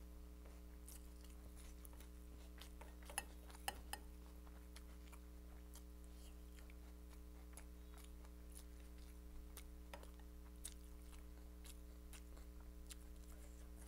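Faint chewing and wet mouth clicks of someone eating Indian food by hand, with a few sharper clicks between three and four seconds in, over a steady low electrical hum.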